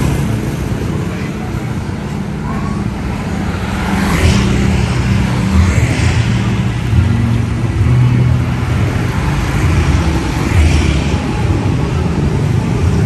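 Motorcycle engine running at low speed close by, its note shifting a little as it creeps along, with other motorbikes passing a few times.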